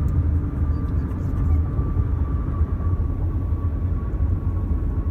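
Steady low rumble of a car heard from inside the cabin, with a faint thin steady tone above it.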